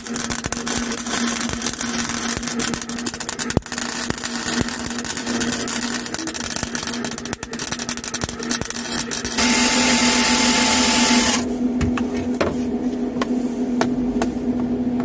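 Welding thin car-body sheet metal: a dense, irregular crackle of the arc for about nine seconds over a steady hum, then about two seconds of louder steady hiss, then a few scattered clicks.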